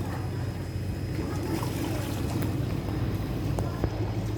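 Steady low engine drone of a boat running on the river, with a few faint small clicks.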